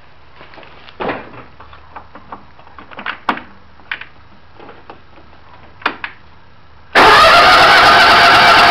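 Scattered clicks and knocks of handling for several seconds, then a small tractor engine running, cutting in suddenly and loudly about seven seconds in.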